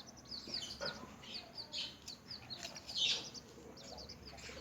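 A group of newly hatched chicks peeping: many short, high, downward-sliding chirps overlapping, with a louder cluster about three seconds in.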